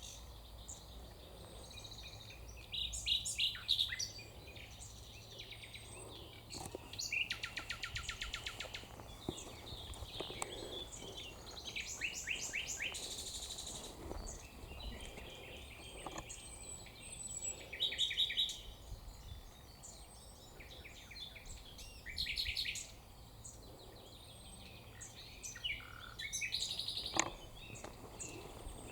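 Several songbirds singing and calling at once, a busy mix of high chirps and fast repeated trills overlapping from moment to moment.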